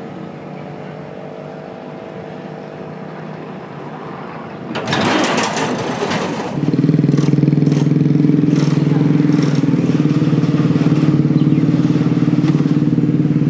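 Motorbikes crossing the Cẩm Kim bridge: a quieter steady hum at first, a brief rush of noise about five seconds in, then a much louder steady drone with a fine rattle, the sound of a motorbike rolling over the bridge deck.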